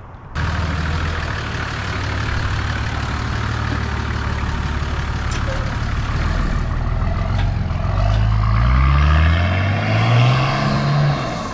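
Nissan Patrol Y61's TD42T turbo-diesel engine pulling steadily under load. From about eight seconds in, its pitch rises twice in quick succession as the vehicle accelerates.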